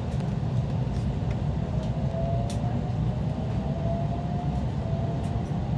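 Running noise inside a moving electric local train: a steady low rumble of wheels on rail, with a faint whine that rises slightly in pitch from about two seconds in.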